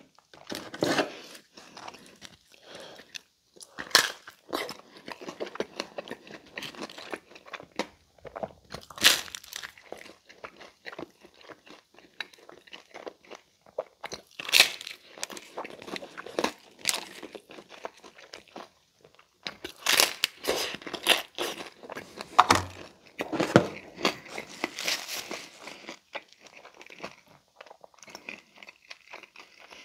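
Close-up chewing and crunching of a crispy Pizza Hut Meat Lovers Melt, a folded thin-crust pizza, with irregular loud crunches as bites are taken. The crunching is loudest about four and nine seconds in and again from about twenty to twenty-five seconds in.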